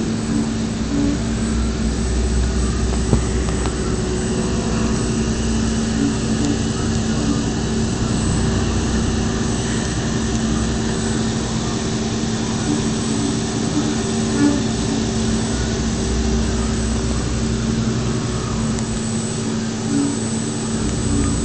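DMU 65 five-axis machining centre running a flange-milling job: steady machine noise with a constant low hum.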